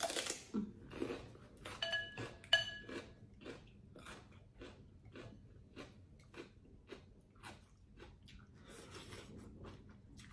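Close-up chewing of a mouthful of pho, about two chews a second, starting with a loud noisy burst. Two light clinks of a utensil against the bowl about two seconds in.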